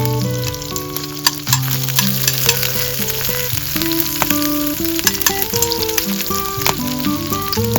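Food frying in a hot pan: a continuous sizzle with frequent small crackles and pops. Background music plays a melody of held notes over it.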